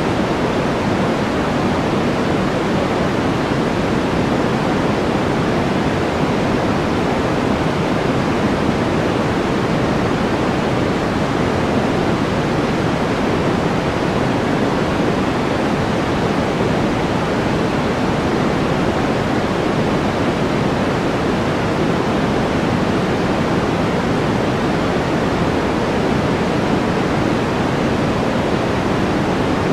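Steady white-noise track: an even, unbroken hiss weighted toward the low and middle range, with no changes.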